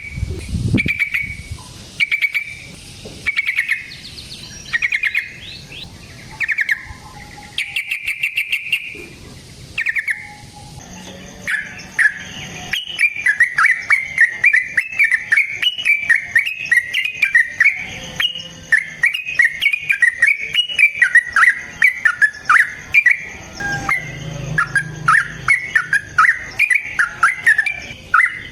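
Yellow-vented bulbul (trucukan) singing: short separate phrases about once a second, then from about eleven seconds in a long unbroken run of quick notes.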